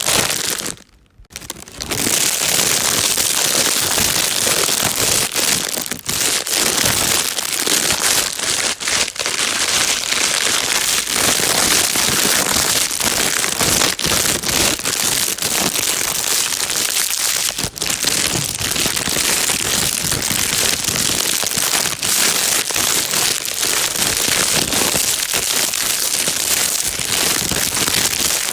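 Plastic bag being crumpled and crinkled without a break, a dense crackling rustle, with a short pause about a second in.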